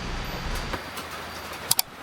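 Steady hiss of rain, with a low rumble that fades out under a second in, then two sharp clicks in quick succession near the end.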